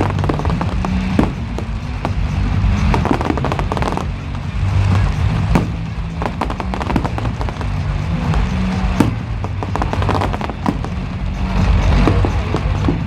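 Fireworks display going off: a rapid run of sharp bangs and crackling shell bursts, with one especially loud bang about nine seconds in.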